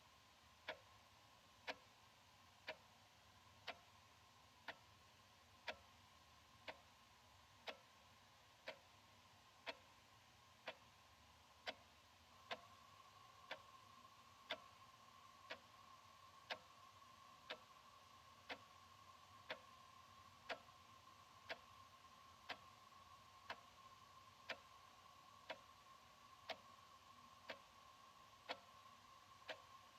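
Analog wall clock ticking quietly and evenly, one tick a second. A faint steady hum sits underneath and grows slightly louder about twelve seconds in.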